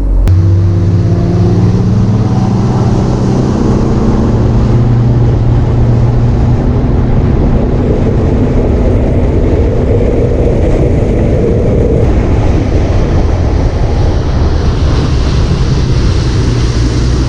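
Bass boat's outboard motor running hard at speed, its pitch climbing over the first couple of seconds and then holding steady, under a loud rush of noise.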